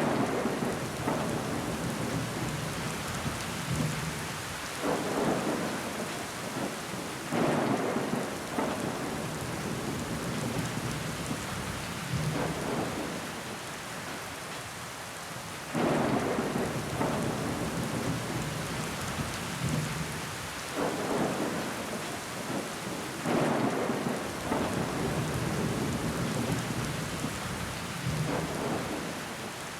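Steady rain falling, with sudden louder surges every few seconds that fade away.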